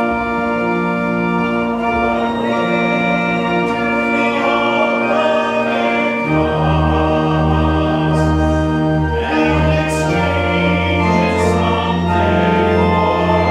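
Church congregation singing a slow hymn with pipe-organ-style accompaniment, the organ holding long sustained chords under the voices.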